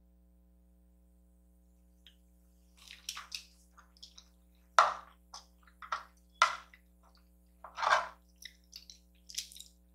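Close-up wet eating sounds: a run of short, moist chewing clicks and lip smacks. They begin about three seconds in, after a quiet start.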